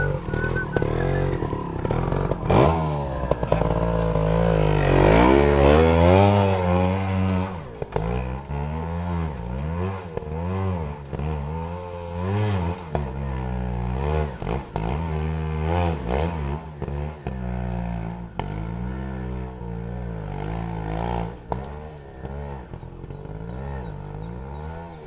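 Trials sidecar outfit's motorcycle engine revving hard as the outfit climbs a steep, rough bank, loudest over the first several seconds, then rising and falling over and over as the throttle is worked, dropping away near the end.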